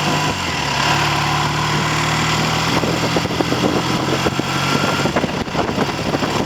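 Triumph TR6 650 cc parallel-twin motorcycle engine, freshly rebuilt with new pistons and rings, ticking over steadily at idle; near the end its note is broken up by choppy wind noise on the microphone.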